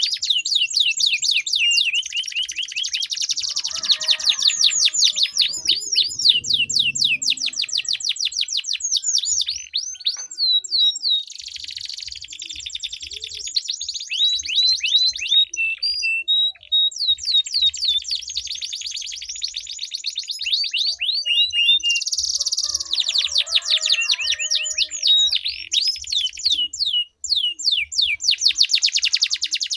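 Domestic canaries singing long rolling trills: fast runs of repeated sweeping notes, one trill running into the next with only short breaks.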